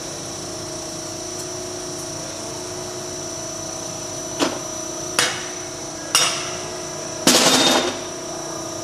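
Three sharp metal knocks about a second apart, then a longer clattering rattle near the end, over a steady machine hum.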